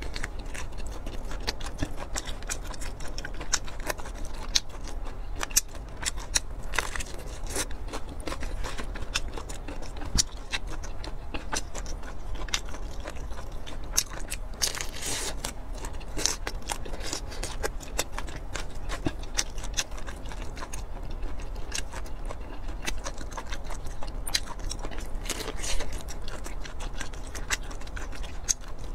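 Close-miked eating sounds: a person biting and chewing soft braised meat, with a dense run of wet mouth clicks and smacks.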